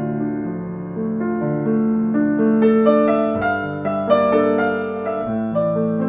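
Slow, gentle solo piano music: single notes and chords struck and left to ring over a low sustained bass.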